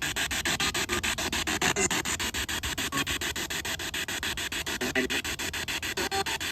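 Spirit box sweeping through radio stations: a steady stream of static hiss chopped into rapid even pulses, about ten a second.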